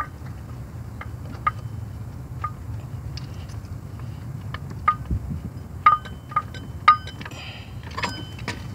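Light metallic clinks of a socket and ratchet on the loosened tensioner bolt as it is turned out by hand. Each clink rings briefly. They come singly, a second or so apart, then closer together from about six seconds in.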